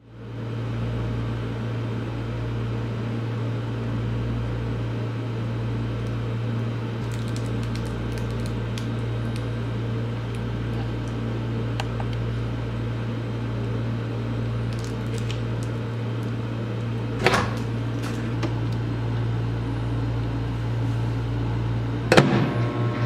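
Microwave oven running with a steady hum while a ball of packing tape heats inside. Faint scattered crackles and ticks come in about a third of the way through, with two louder sharp cracks, one past the middle and one near the end. After the second crack the hum starts to pulse rapidly.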